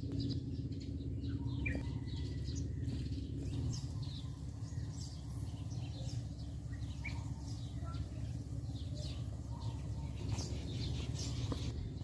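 Small birds chirping, with many short high notes scattered through, over a steady low rumble.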